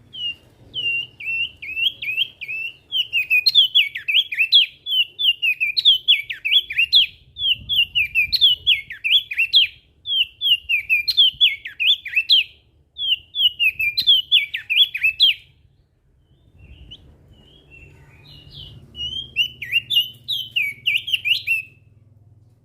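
Crested white-eye (opior jambul) singing: fast runs of quick, sliding whistled notes in phrases of a second or two with short gaps between, a brief break about two-thirds of the way through, then a quieter restart that grows louder near the end.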